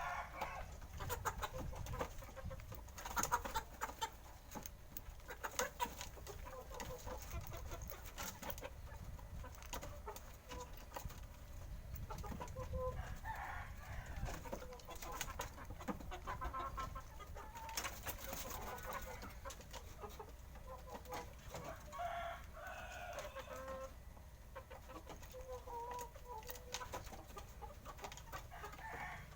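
Chickens clucking, with short calls scattered through and clicks in between.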